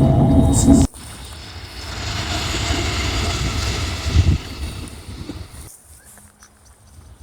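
A loud low rumble with steady tones cuts off abruptly about a second in. A train passing then follows, its rushing noise swelling to a peak and fading away. Near the end it cuts to a quiet stretch with faint bird chirps.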